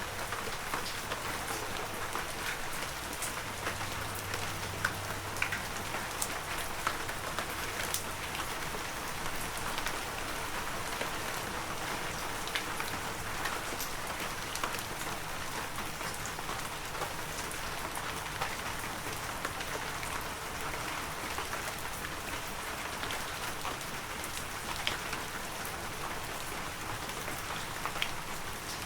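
Heavy rain falling steadily, a dense hiss scattered with sharp individual drop hits.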